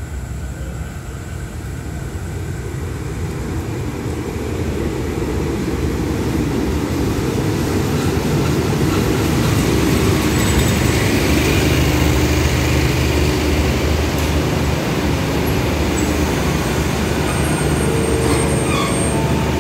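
Diesel-hauled express passenger train pulling into a station. The locomotive's engine drone and the wheels' rumble on the rails grow louder over the first ten seconds as the train comes alongside, then hold steady as the carriages roll past.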